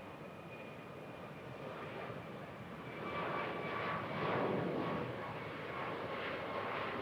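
Jet airliner engines, most likely a Condor Boeing 757-300's Rolls-Royce RB211 turbofans, passing close, with steady whining tones over a rushing roar. The sound grows louder and rougher about three seconds in as the aircraft nears.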